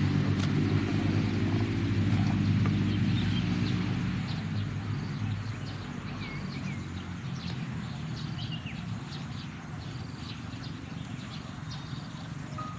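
Low engine hum of a motor vehicle, loud at first and fading away after about four or five seconds. Birds chirp and call throughout.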